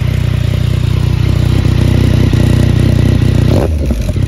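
Yamaha XSR900's three-cylinder engine idling through an aftermarket Black Widow carbon exhaust, with a brief throttle blip about three and a half seconds in.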